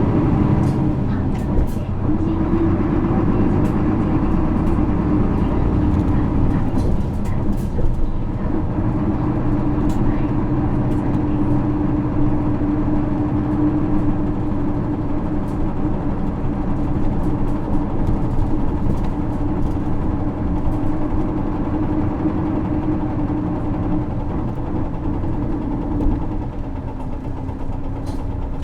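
Isuzu 6HK1 six-cylinder diesel of a 2009 Isuzu PKG-LV234L2 city bus running steadily under way, with a steady engine drone and light scattered rattles. About 26 seconds in, the engine note drops lower as the bus eases off.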